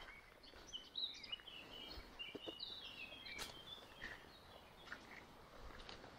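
Faint birdsong: a quick run of short chirps and whistles over a quiet outdoor background, with one sharp click about three and a half seconds in.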